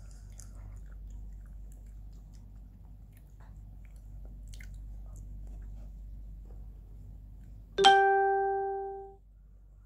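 Faint chewing of chocolate-glazed doughnuts over a low steady hum. Near the end a single bell-like chime rings out and fades over about a second.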